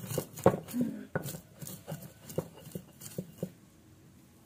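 Irregular light knocks and taps, a few a second, from hand food preparation in a kitchen; they thin out near the end.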